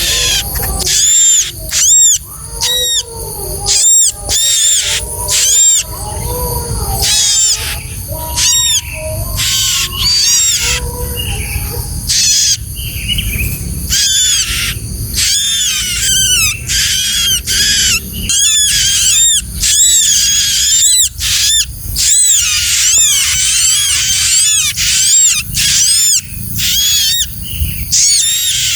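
Bar-winged prinia (ciblek) calling with rapid, repeated high chirps, several a second, over a low rumble.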